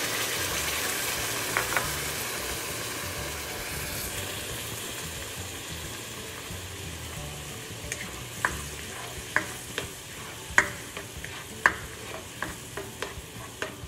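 Pureed tomato mixture sizzling in hot oil in a nonstick wok, just poured in, the sizzle slowly fading as it settles. In the second half it is stirred with a spoon, with a run of sharp clicks.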